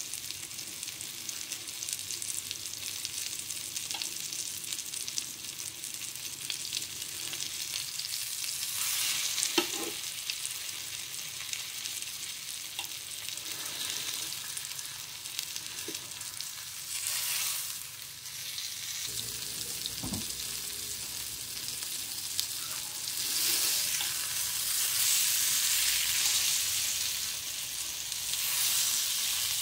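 Flour-dredged chicken breasts frying in butter and olive oil in a nonstick pan: a steady sizzle, with a few light clinks of a fork as the pieces are turned. The sizzle swells louder near the end.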